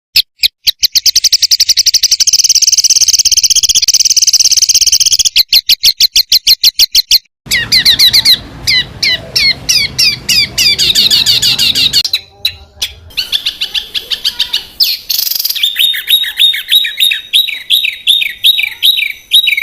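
Recorded small songbirds giving fast, harsh 'tembakan' phrases. First comes a very rapid trill of repeated high notes. After a brief break there is a run of sharp chips, and then a steady series of down-slurred notes at about three or four a second.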